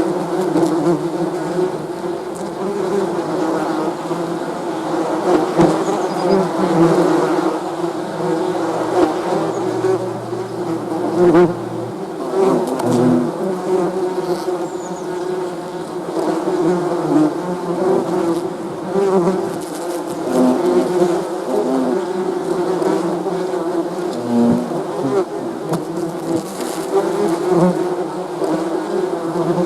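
Bees buzzing in a steady, continuous hum that wavers in pitch and loudness.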